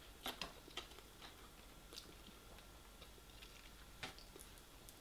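Faint chewing of a mouthful of noodles, with a few soft, scattered mouth clicks. About four seconds in, a metal fork clicks against the plate.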